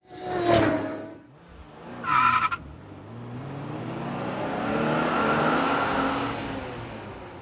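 Sound effects of a racing motorcycle: a short burst of engine noise, a brief tire screech about two seconds in, then a long engine pass with sliding pitch that swells and fades away.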